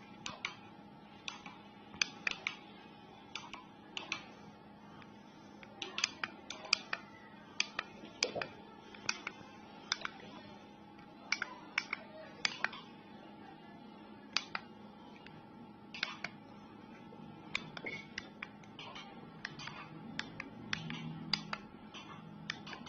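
Irregular sharp clicks and taps, several in quick clusters, over a steady low hum.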